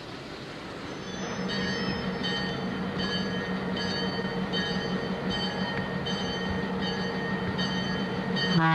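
EMD F-unit diesel locomotives drawing closer, their engine drone growing louder, with a high ringing that pulses about every half second. The locomotive air horn starts to sound near the end.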